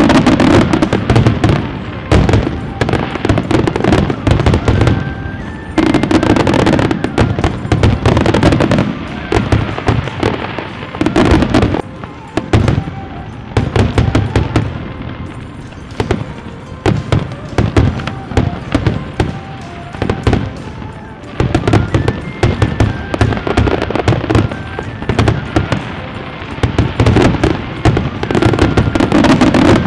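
Fireworks display going off in a dense, continuous run of sharp bangs and crackles, with music playing underneath.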